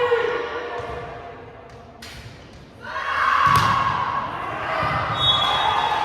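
Players and spectators in a gym shouting and cheering, their voices echoing in the hall. The voices fade away over the first second, then break out loudly again about three seconds in, with a single sharp smack of a volleyball being struck soon after.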